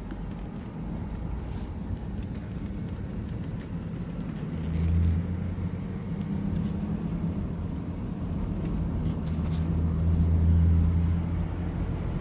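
Chevrolet van driving, with a steady engine hum and road noise that swells twice. No clunk or rattle is heard from the rear, where the loose rear shock absorber bolt has been packed with wire to take up the play.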